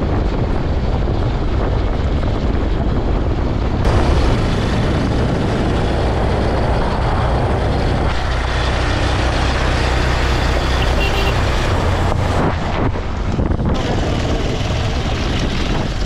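Motorcycle on the move: wind noise on the microphone, loud and steady, over the low drone of the running engine.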